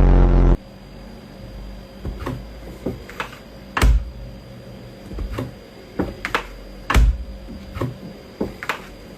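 A loud, short pitched burst at the start, then a dozen or so irregular sharp taps or clicks over a steady faint hum.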